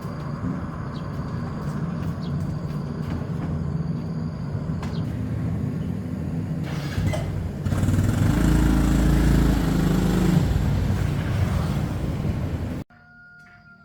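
An engine running steadily, getting louder about eight seconds in, then stopping abruptly near the end.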